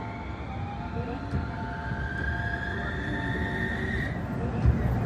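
Utsunomiya LRT HU300 light-rail tram pulling away, its traction motors giving a whine that rises in pitch as it accelerates, over a low rumble of wheels on rail. The whine stops about four seconds in and a low thump follows near the end.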